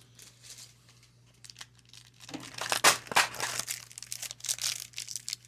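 Crinkling and rustling of baseball-card pack wrappers and cards being handled. It starts about a second and a half in and goes on in irregular crackles and clicks.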